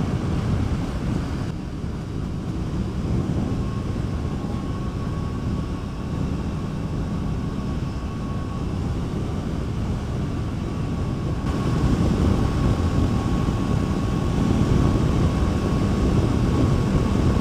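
Honda CBR500R's parallel-twin engine running at road speed, with wind noise, heard through a helmet chin-mount microphone. A thin steady high whine sits over it from a few seconds in, and the sound grows a little louder in the second half.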